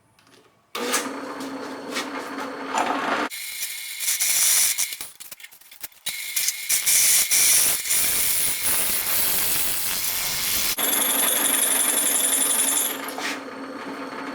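Electric drill running, its bit pressed against the steel of a knife tang. A steady motor whine starts about a second in, harsh scraping from the bit on the steel takes over in the middle, and the whine returns before stopping near the end. The bit fails to cut through the steel.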